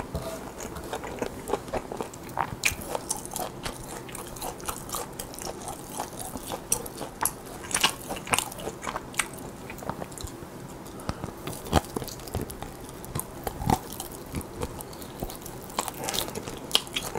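Close-miked biting and chewing of grilled lamb meat, a run of short, irregular mouth clicks, with one sharper click about three-quarters of the way in.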